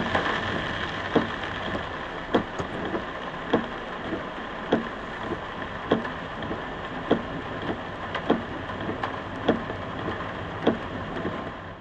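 Steady rush of heavy rain, with a short regular knock a little more than once a second.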